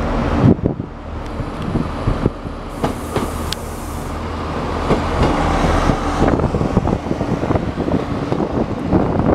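Iarnród Éireann InterCity diesel railcar running past close by, its wheels clicking and clattering over rail joints and points over a steady low diesel engine hum. The sound grows louder through the second half.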